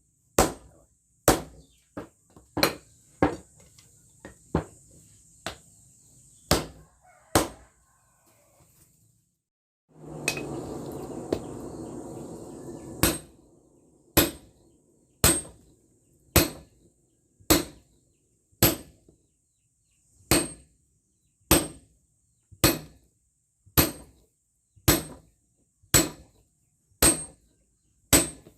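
Hand hammer striking steel on an anvil, forging a golok blade from railway rail steel: a steady series of single sharp blows, about one a second. A third of the way in the blows pause and a few seconds of rushing noise come in before the hammering resumes.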